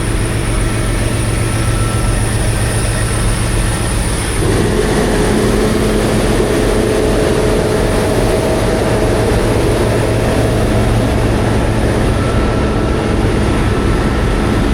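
Semi-truck engine running under way, with road noise, heard from inside the cab. The engine note shifts about four seconds in and then holds steady.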